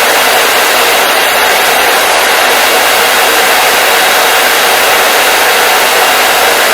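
Hair dryer running steadily, a constant airy rush of blower noise with no change in pitch or level.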